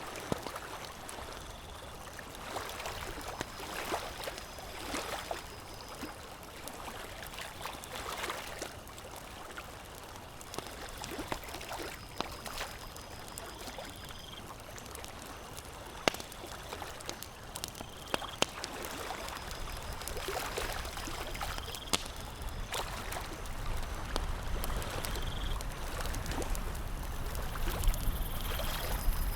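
Campfire crackling with scattered sharp pops over a steady wash of lake water lapping. A low rumble builds over the last third.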